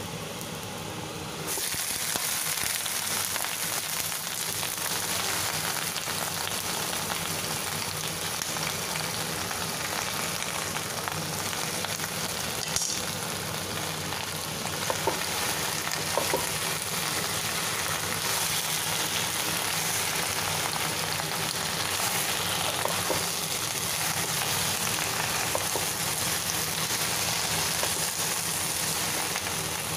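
Garlic and leafy greens sautéing in hot oil in a nonstick wok: a steady sizzle that gets louder about a second and a half in. A wooden spatula stirs the greens, with a few light knocks.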